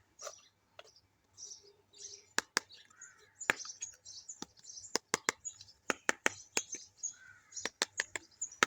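Sharp clicks and taps of small plastic toy kitchen pieces being handled, coming quick and irregular from about two seconds in, with birds chirping in the background.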